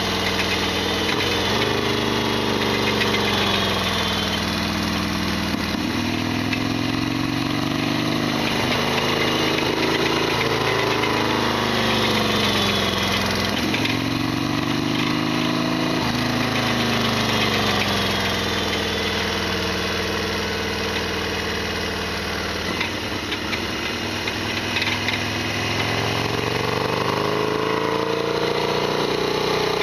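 Harley-Davidson XL1200R Sportster's air-cooled 1200 cc V-twin running under way, its pitch climbing and dropping several times as it pulls through gear changes. The engine carries a loud, clattery mechanical rattle, which the owner calls an abnormal noise.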